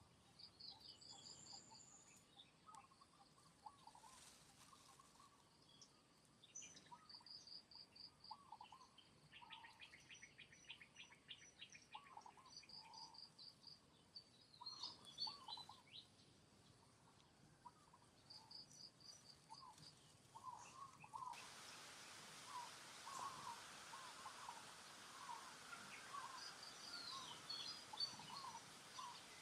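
Faint outdoor birdsong: repeated short high trills and many brief chirps, over a light background hiss that gets louder about three quarters of the way through.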